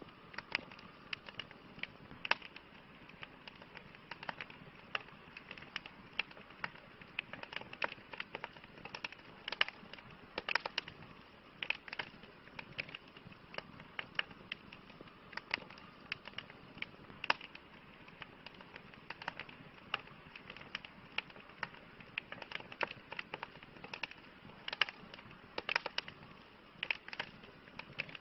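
Campfire crackling: irregular sharp pops and snaps, several a second, over a soft steady hiss.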